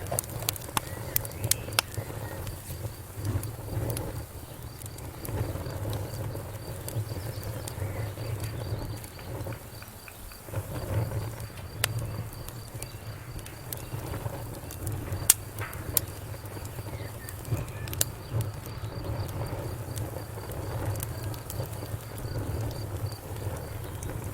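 Fireplace fire burning: a low steady rumble of flames with sharp crackles and pops, a quick flurry in the first couple of seconds and a few louder single pops later.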